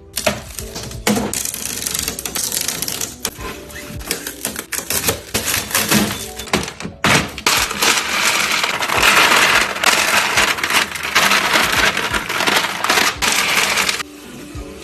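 Rapid clicking and clattering of many small hard objects knocking against each other, densest and loudest over the second half and dropping away near the end.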